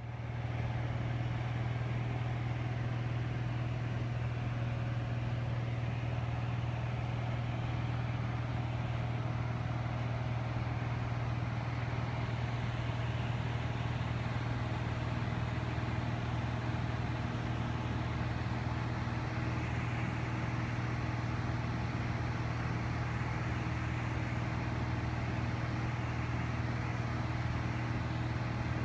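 Lake LA-4-180 amphibian's four-cylinder Lycoming engine and propeller, heard from a distance, with a steady, unbroken drone.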